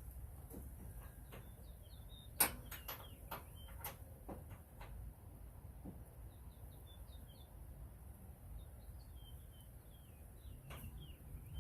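A bird chirping in short, repeated high notes on and off, with a quick run of sharp clicks from a wrench and socket about two and a half seconds in.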